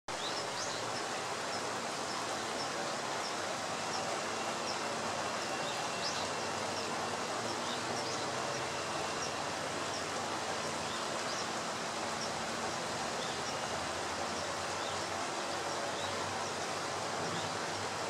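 Short, high bird chirps, about two a second at first and sparser later, over a steady outdoor noise.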